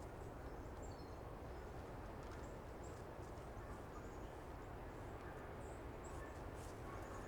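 Faint winter-forest ambience: a steady low hiss with scattered faint, high chirps of small birds, and a few soft ticks near the end.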